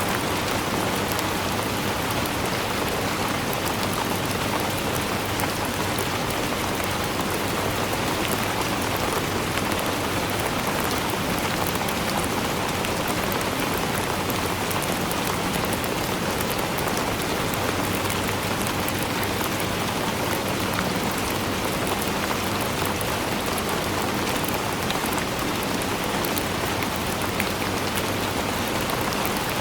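Steady rainfall, an even hiss with fine drops pattering on a surface, unchanging throughout.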